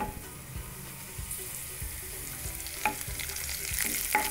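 Chopped small onions sizzling in hot coconut oil in a nonstick pan, stirred with a wooden spatula, with two light taps against the pan. The sizzle grows louder near the end as curry leaves go into the oil.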